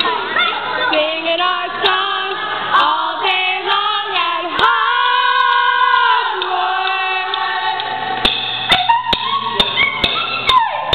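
Young people singing unaccompanied in short sung phrases, with one long held note in the middle and a few sharp clicks near the end.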